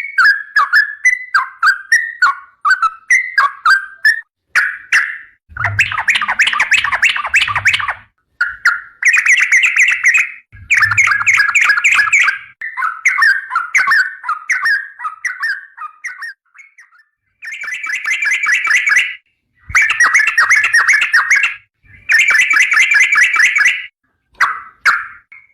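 Trucukan (yellow-vented bulbul) singing: loud bursts of fast, rolling chattering notes lasting two to three seconds each, with short breaks between them.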